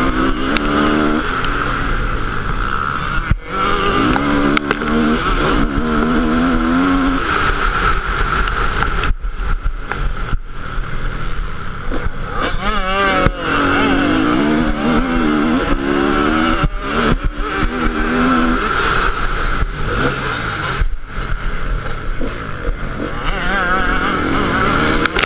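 Motocross bike engine revving up and down repeatedly as it is ridden, with brief drops where the throttle closes, over a steady rushing noise.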